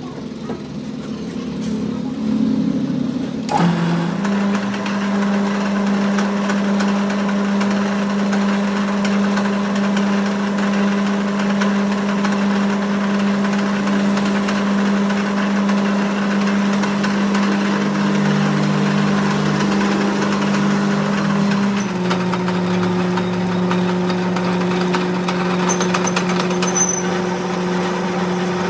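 A motor-driven shop machine running steadily with a constant hum. It settles in a few seconds in and steps to a slightly lower, steady pitch about 22 seconds in.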